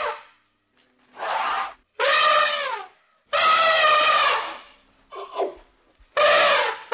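Elephant trumpeting: a series of loud, brassy calls about a second apart, five of them in quick succession with short silences between.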